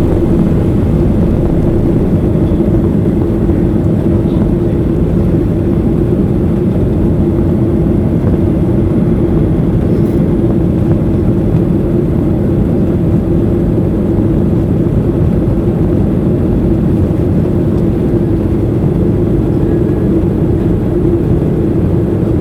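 Boeing 737-800 airliner with CFM56-7B turbofan engines running, a loud steady rumble with a constant hum that holds unchanged throughout.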